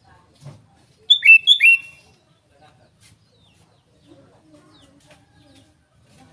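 Sooty-headed bulbul (kutilang) giving one short, loud phrase of clear whistled notes about a second in, two quick pairs of notes each dropping in pitch, then only faint low background sounds.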